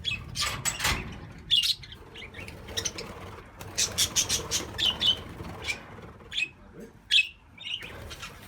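A flock of budgerigars chirping and squawking: many short, high chirps one after another, with a few sharp knocks about half a second to a second in.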